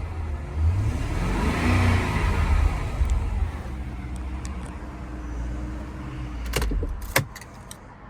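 2002 BMW M5's 4.9-litre V8 running after a cold start, blipped up and down in the first couple of seconds and then settling to a steady idle. Near the end come a few sharp clicks and knocks, and the sound drops away after them.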